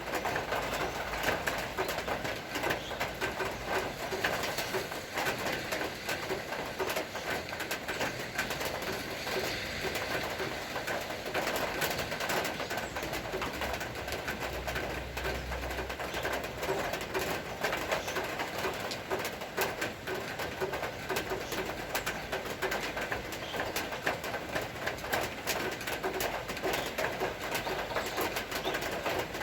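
Steady rain falling with fine drips and taps, and a dove cooing through it.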